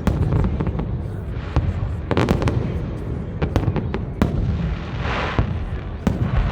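Fireworks display: a rapid, irregular series of sharp bangs from bursting shells over a continuous low rumble, with a brief hissing burst about five seconds in.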